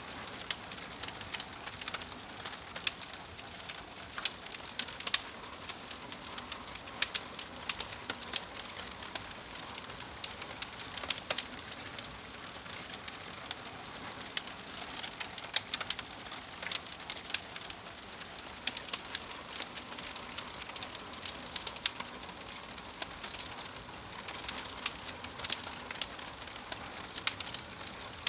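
Crackling fire: a steady hiss with irregular sharp pops and snaps scattered throughout.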